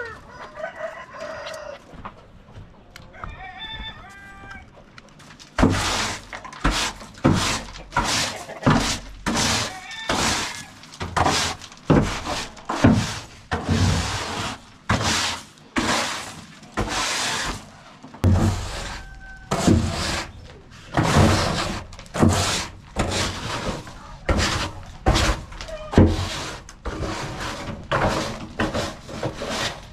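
A few soft chicken calls, then a long, regular run of short, noisy strokes, a little over one a second, from about five seconds in.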